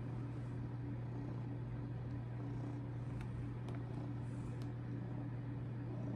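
A steady low mechanical hum, unchanging throughout, with a few faint small clicks around the middle.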